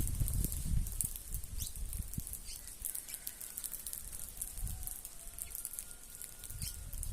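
A flock of birds feeding on the ground: many quick high chirps and ticks over low fluttering and rustling, busiest in the first second.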